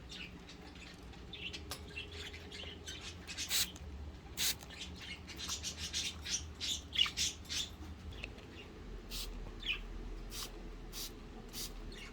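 Budgerigars chirping and chattering in short scattered calls, with a few sharp clicks.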